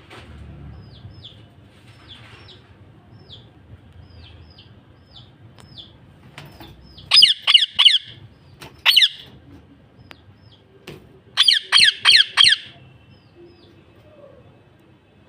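A parrot gives loud, harsh squawks that fall in pitch: a run of about four midway, a single call, then another run of four a few seconds later. Faint, short, falling chirps repeat about twice a second throughout.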